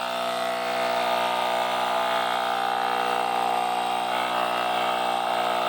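Portable electric tire inflator running steadily with an even motor-and-pump hum, pumping a badly underinflated motorcycle tire up toward a preset 32 psi.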